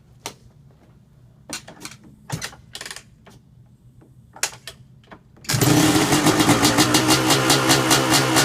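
2003 Yamaha YZ250 two-stroke single-cylinder dirt bike being kicked over. A few short knocks and scrapes come from the kickstarter, then about five and a half seconds in the engine fires and runs loud with a quick, even pulsing beat: its first start after a full rebuild.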